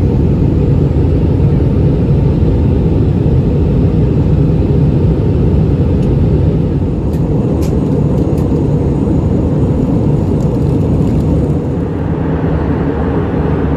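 Steady, loud cabin noise of an Airbus A319 in its climb after takeoff: jet engines and airflow heard from inside the cabin, mostly low. It eases slightly about halfway through and again near the end.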